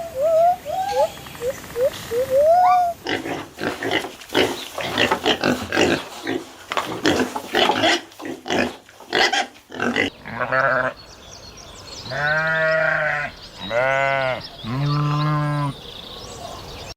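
Farm animal calls: a few seconds of short rising chirps, then a long run of rapid pig-like grunts and snorts, then three drawn-out bleating calls near the end.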